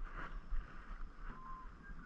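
Kayak paddling: the paddle dipping and water splashing and dripping in short strokes, over a low rumble of wind on the microphone. A faint thin whistle comes in about halfway through.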